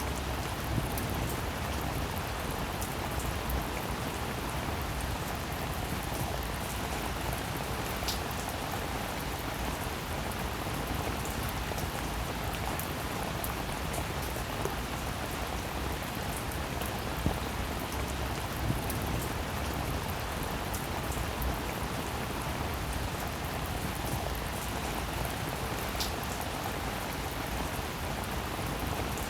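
Steady rainfall, an even hiss of rain with single drops now and then ticking out distinctly above it.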